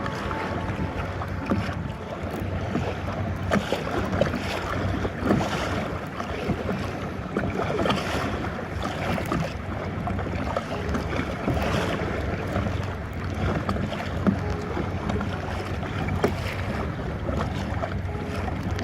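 Kayak paddle splashing and choppy, wind-whipped water slapping against the kayak, with wind buffeting the microphone.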